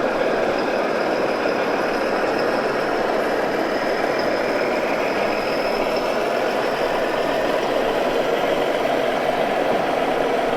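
Radio-controlled model truck running, a steady engine-like noise with a faint high whine above it.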